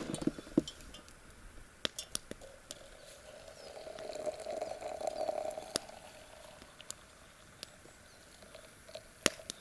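Boiling water being poured into a tea-steeping pot of fireweed tea: a faint steady pouring sound that swells about three and a half seconds in and dies away about two seconds later, among scattered small sharp clicks.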